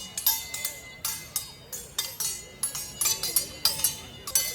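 Swords clashing in a rapid exchange, about three or four ringing metal strikes a second.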